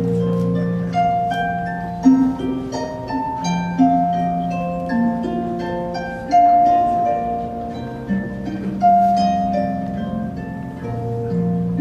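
Live music on plucked strings: a melody of separate ringing plucked notes over long-held low notes.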